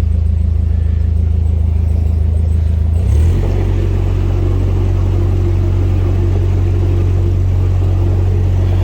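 Narrowboat's diesel engine running steadily, revving up a little about three seconds in and holding at the higher speed.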